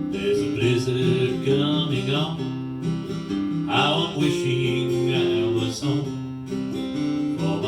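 Acoustic guitar strumming chords, the instrumental introduction to a country-style song.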